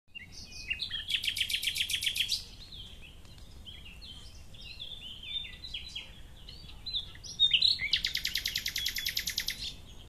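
Songbird birdsong: two fast, loud trills of about ten notes a second, about a second in and again near the end, with varied short chirps and twitters between them.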